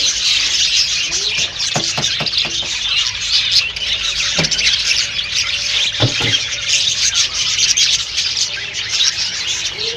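Many caged lovebirds chattering and squawking at once, a continuous high-pitched din, with a few short knocks about two, four and a half, and six seconds in.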